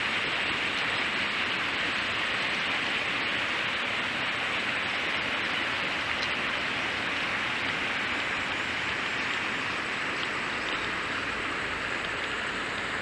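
Steady rushing of stream water, an even hiss with no breaks or rhythm.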